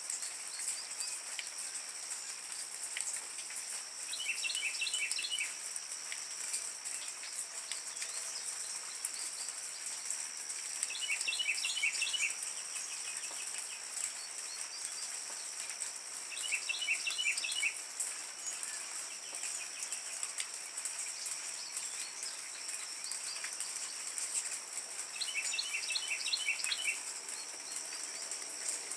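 Small birds chirping in quick bursts of short, high notes, four times, over a steady high-pitched whine.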